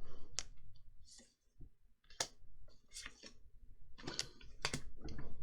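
Trading cards being handled and flipped through by hand: a string of sharp card clicks and short papery rustles, thickest near the end.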